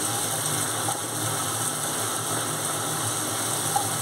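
Tomato-and-chilli spice paste sizzling steadily in oil in a nonstick pan while it is stirred and scraped with a spatula, being fried down until the masala is cooked.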